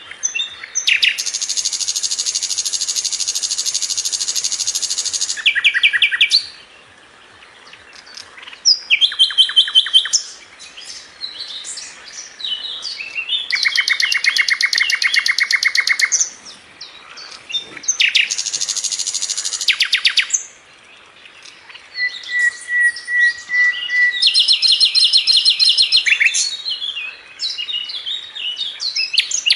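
A sikatan londo flycatcher singing in long, fast, tightly packed high trills, each a few seconds long with short pauses between them, and one short steady whistle partway through.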